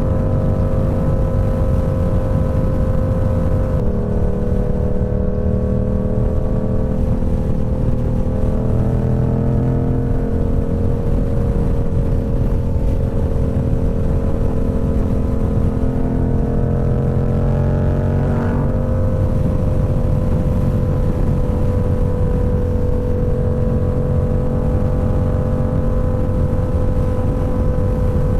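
Motorcycle engine running at a steady cruise under heavy low wind rumble. The engine note drops about four seconds in, climbs slowly back up, and changes again briefly about eighteen seconds in.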